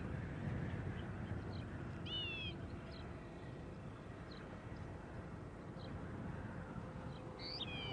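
Outdoor ambience: a low steady rumble with a bird calling twice, short wavering calls about two seconds in and again near the end, and faint chirps between them.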